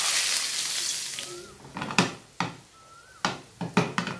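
Gram-flour squares going into hot shallow oil in a nonstick frying pan: a loud burst of sizzling that fades over about a second and a half, followed by a series of sharp clicks and pops as the frying goes on.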